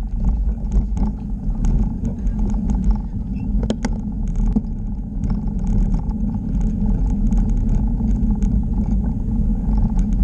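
Steady low rumble with frequent light rattling clicks throughout, as of a vehicle moving along.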